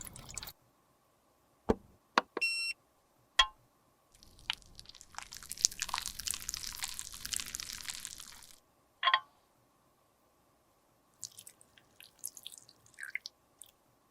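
Small clicks and taps from handling cosmetic containers, a brief squeak, then about four seconds of scraping and rubbing as makeup is worked by hand, followed by another click and a few faint ticks.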